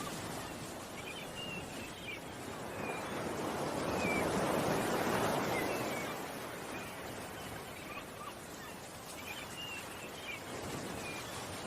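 Ocean waves washing in, one wave swelling and falling away about four to six seconds in, with short bird chirps scattered over it.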